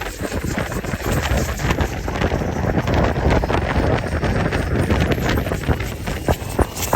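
Fast motorboat underway: engine rumble and rushing water, with the hull knocking and slapping on waves many times and wind buffeting the microphone.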